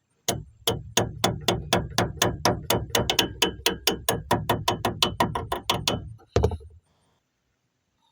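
Hand ratchet wrench being worked in a steady run of clicks, about four to five a second for some six seconds, then a single knock.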